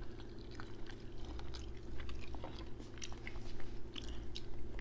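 Close-miked chewing and biting: many small wet mouth clicks and smacks of people eating, over a steady low hum.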